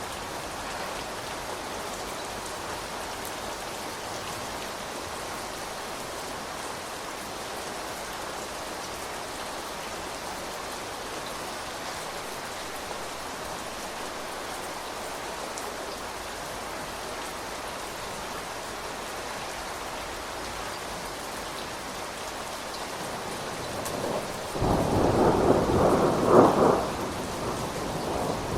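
Steady rain falling, with a loud rumble of thunder that swells about 24 seconds in and fades over a few seconds.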